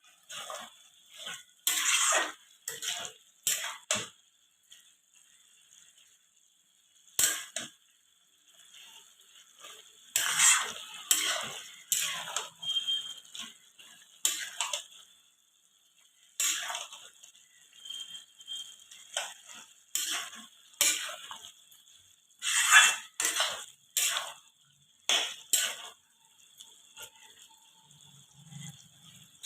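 Metal utensils clinking and scraping against cookware in irregular bursts, with pauses of a second or more between them.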